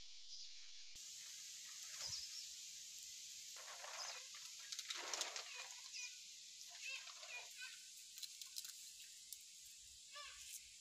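Faint outdoor background hiss with a few short bird calls and some soft rustling about four to five seconds in.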